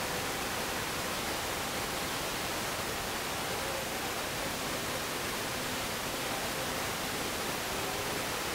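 Steady, even hiss like recording or line noise, with faint wavering tones underneath.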